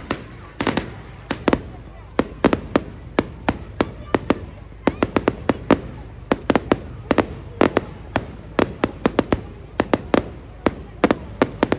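Fireworks going off: a dense, irregular string of sharp bangs and cracks, often several a second, with some louder reports among them.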